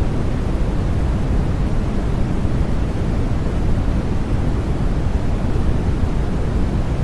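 Continuous sleep white noise: a steady, even hiss weighted toward the low end, deeper than plain white noise, with no changes or breaks.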